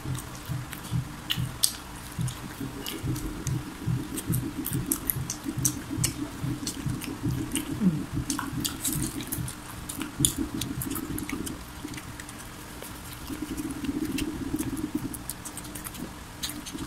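Close-miked eating of fried chicken and french fries: steady rhythmic chewing with many small crunchy clicks from the fried coating and wet mouth sounds.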